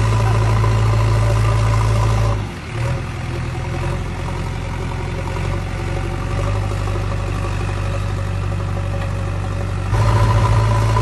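Diesel engine of a JCB excavator-loader running steadily with a strong low hum; about two and a half seconds in the sound drops and changes, and it jumps back to the louder hum near the end.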